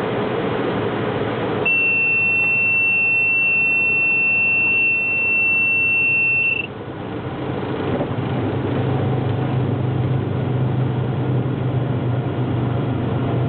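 Small airplane's engine and cabin noise heard through the cockpit intercom, with a steady high-pitched beep starting about two seconds in and lasting about five seconds before cutting off.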